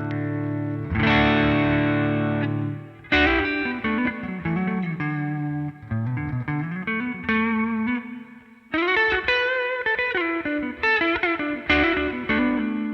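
Electric guitar played through a Greer Amps Lightspeed overdrive pedal, mildly overdriven. It starts on ringing chords, moves into single-note phrases with bends and slides, pauses briefly, then plays more notes and ends on a held chord.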